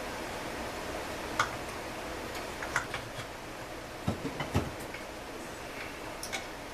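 A few light, separate clicks and taps of small metal parts and hand tools being handled on a workbench, over a steady hiss.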